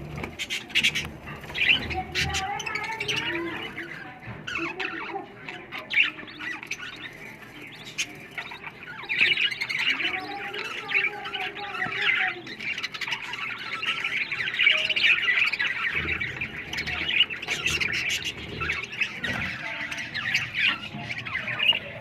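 Budgerigars chirping and squawking in a dense, continuous chatter of many overlapping calls.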